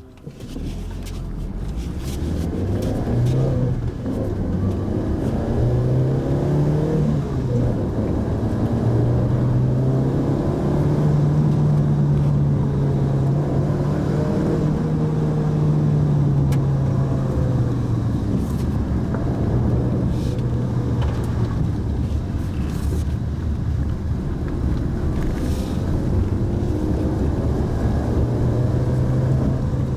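Pajero Mini kei SUV engine heard from on board while driving, building up in the first few seconds as the car pulls away and then running steadily, its pitch rising and falling with the throttle and gear changes.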